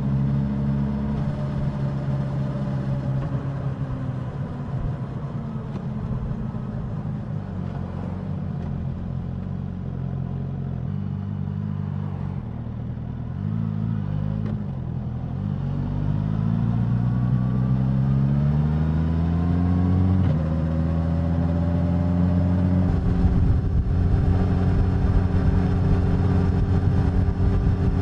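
Suzuki GSX-S1000 inline-four motorcycle engine and exhaust heard while riding. The engine note sinks slowly as the bike slows, then climbs steadily under acceleration, drops sharply at a gear change about two-thirds of the way in, and runs louder for the last few seconds.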